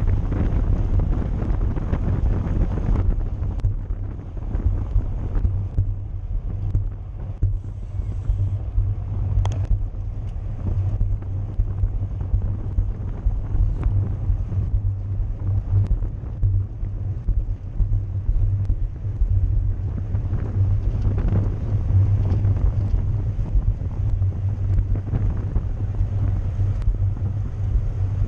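Wind buffeting the microphone of a camera riding along in a bicycle race: a steady low rumble.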